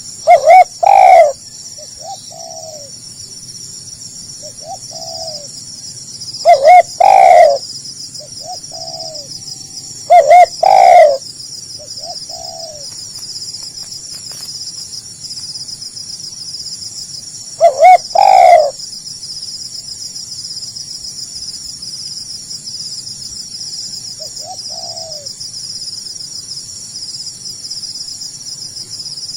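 Spotted dove cooing: four loud, clipped multi-note coo phrases spaced several seconds apart, with fainter short coos in between. A steady high-pitched insect trill, crickets or cicadas, runs underneath.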